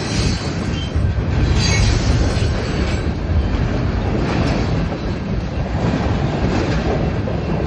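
A train passing close by: a loud, steady rumble of wheels rolling on the rails.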